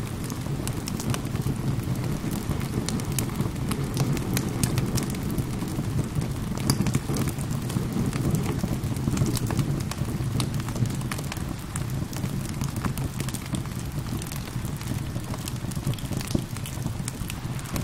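Wood fire crackling and popping with frequent sharp snaps over a steady low rumble, with rain falling in the background.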